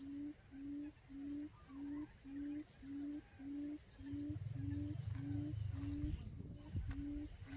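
Decoy quail call: a short, low hoot repeated evenly about twice a second, with faint high chirps of other birds and a low rumble partway through.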